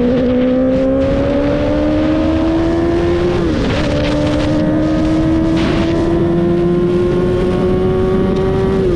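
Motorcycle engine running hard while riding, its note climbing slowly, with a brief dip and recovery about three and a half seconds in as a gear is changed, over steady wind and road rush.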